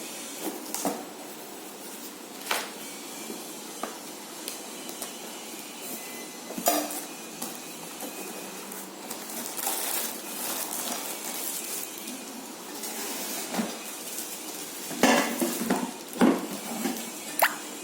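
Hard plastic parts of a water purifier clattering as they are lifted out and set down during unpacking: scattered clicks and knocks, with a busier run of knocks near the end, over a steady background hiss.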